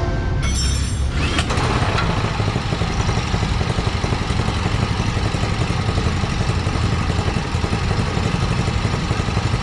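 Small gasoline engine running steadily, after a brief burst of noise in the first second or so.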